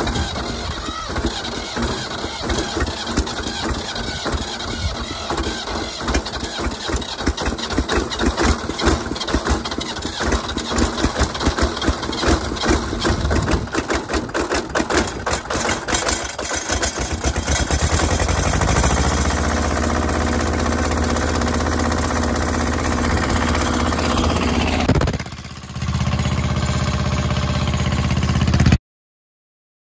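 Engine running just after being started with a newly fitted alternator. It runs with a fast, even clatter at first, then settles into a steady, smoother run at higher speed about 18 s in, with a brief drop about 25 s in. It cuts off abruptly near the end.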